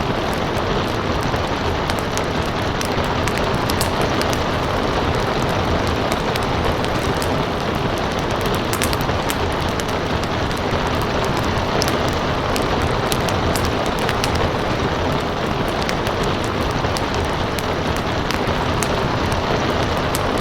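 Steady rain hiss with a wood fire crackling over it, frequent sharp little pops scattered irregularly throughout.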